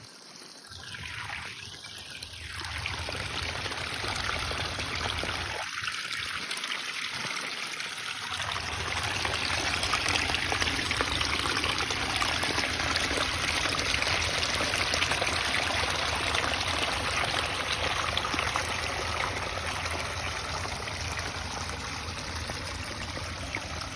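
Water from a garden pond waterfall splashing and trickling into the pond, a steady rushing that grows louder over the first few seconds and then holds.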